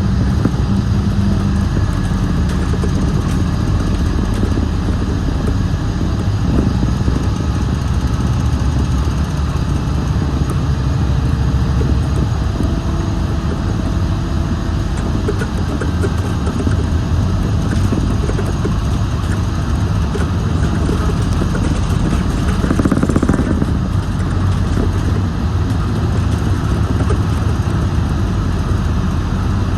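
Scania Citywide LE CNG city bus running: a steady low engine drone with faint tones that shift slowly in pitch as it drives. About three-quarters of the way through there is a brief louder rush of noise.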